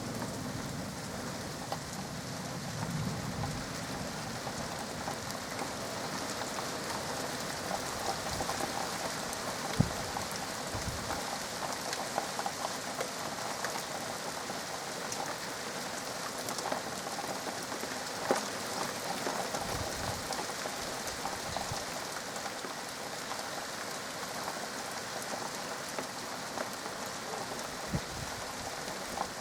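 Steady rain falling during a thunderstorm, an even hiss of drops with a few sharper taps standing out, around ten seconds in and again past the middle.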